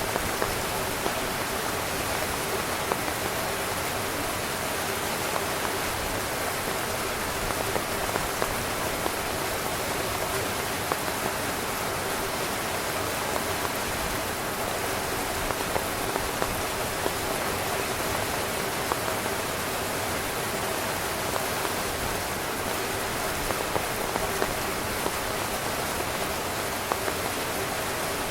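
Steady rain falling on a tent: an even hiss with scattered, slightly louder drop ticks.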